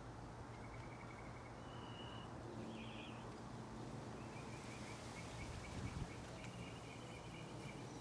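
Small birds chirping in short, repeated trills, several in a row after the first few seconds, over a steady low hum. A single soft knock just before six seconds in.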